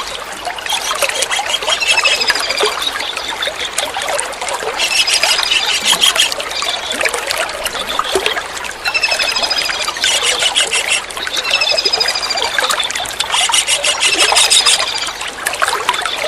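Kingfisher calls, short bursts of rapid high piping notes repeated several times, over a steady trickle of running water.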